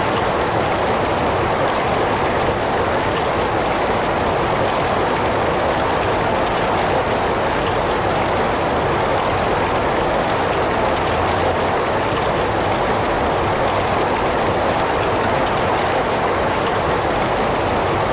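Steady heavy rain, an even unbroken hiss of falling water with no single drops or thunder standing out.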